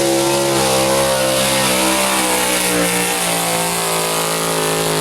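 Pulling truck's engine held at high revs under load as it drags the weight sled, its pitch wavering a little.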